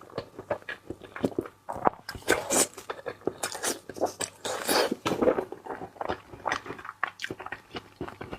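Close-miked, wet chewing and mouth smacking of raw salmon in a mukbang, in quick irregular clicks and squelches.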